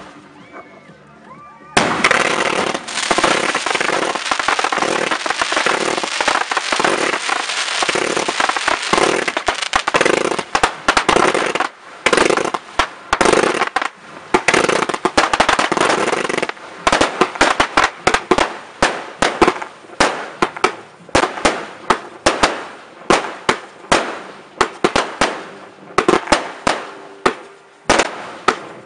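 Fireworks going off: after a quieter start, a dense rapid barrage of bangs and crackling sets in about two seconds in, then thins out about halfway through to separate bangs coming roughly once or twice a second.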